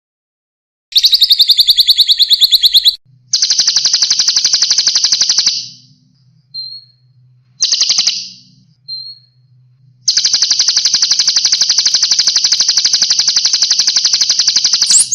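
Songbird recording for murai batu training: a series of very fast, buzzy trills of rapidly repeated high notes, the first starting about a second in, with two short thin whistled notes in a gap in the middle and a long unbroken trill over the last five seconds.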